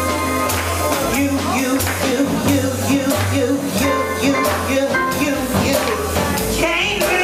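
Live jazz band playing: a walking bass line stepping note to note under keyboard chords and drums with cymbal hits.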